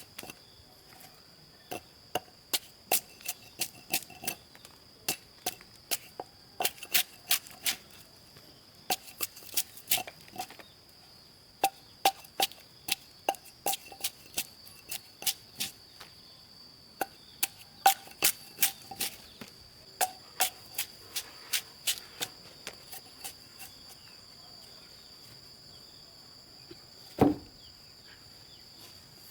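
Repeated sharp blows of a hand tool striking wood, in irregular runs of two or three strikes a second with short pauses between, each blow ringing briefly. A steady high insect drone runs behind, and one heavier, duller knock comes near the end.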